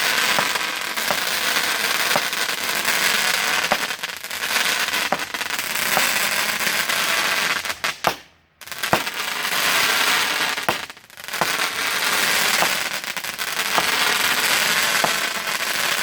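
A 200-gram consumer firework cake firing: a dense, continuous crackle studded with sharp pops. The firing stops suddenly for about half a second around halfway, dips again briefly a few seconds later, then carries on.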